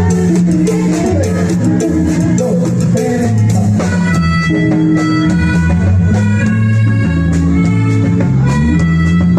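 Band music with drum kit, bass and guitar, playing a steady beat with no vocals.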